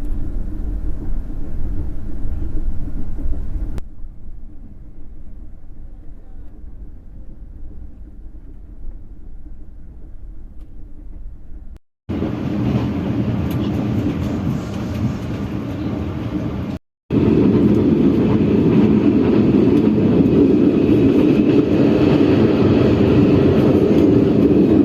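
Moving passenger train heard from on board: a steady rumble of wheels on rail, in several clips cut together. It turns quieter about four seconds in, drops out briefly and comes back louder about twelve seconds in, and drops out again and is at its loudest from about seventeen seconds on.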